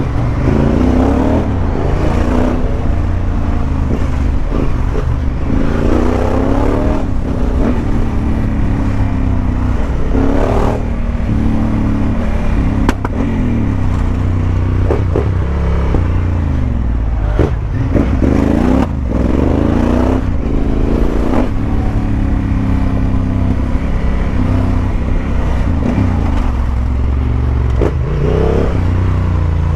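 Honda Africa Twin motorcycle engine running under way, revving up again and again with its pitch rising through each gear and falling back at the shifts. A single sharp click sounds about halfway through.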